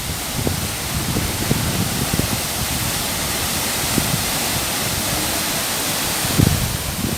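Waterfall: a steady rush of falling water, with irregular low thumps underneath.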